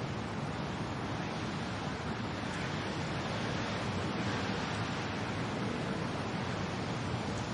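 Steady wind and rain, an even rushing hiss that swells slightly around the middle.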